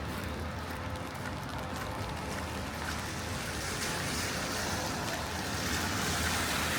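Outdoor city noise on a wet street: a steady hiss that swells from about halfway through, like vehicle tyres running on wet road.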